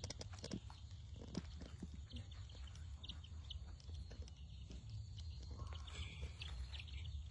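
Brood of young chicks peeping faintly, with short high chirps thickening in the second half, amid a scatter of quick clicks and taps over a steady low hum.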